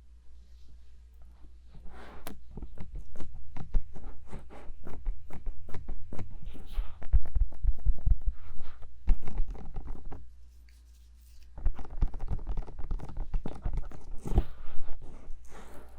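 Bare fingers tapping and rubbing fast on the silicone ears of a 3Dio binaural microphone, with deep thuds under the quick taps. The tapping stops for a moment about ten seconds in, then starts again.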